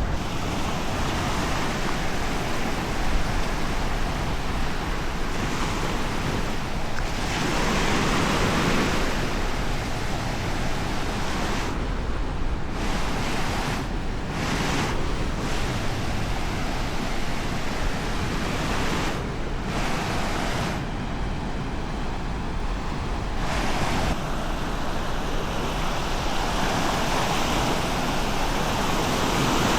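Surf washing onto a sandy beach, a steady rushing that swells with louder washes about eight seconds in and again near the end, with a low wind rumble underneath.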